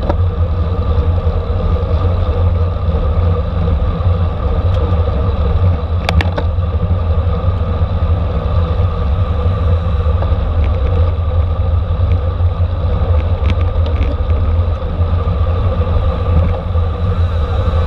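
Steady rumble of wind and road noise on a racing bicycle riding at speed, with a few brief clicks scattered through.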